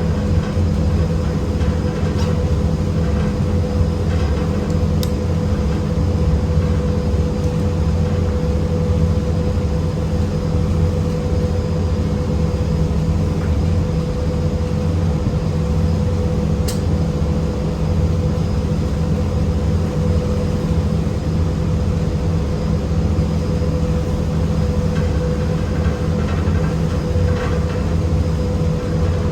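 Steady low mechanical drone with a constant hum, unchanging throughout, with a couple of faint clicks.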